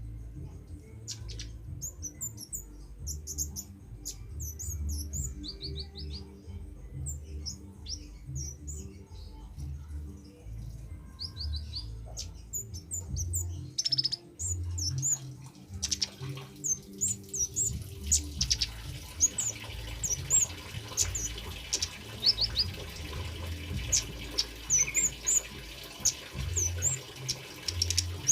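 Male kemade birds calling in a wild recording: many short, quick chirping notes, some in rapid trills. From about two-thirds of the way in, a steady hiss of trickling water runs underneath, with a low rumble throughout.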